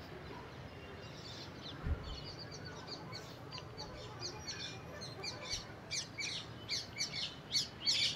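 Small birds chirping in quick, high repeated notes, getting louder and more frequent toward the end. A single low bump about two seconds in.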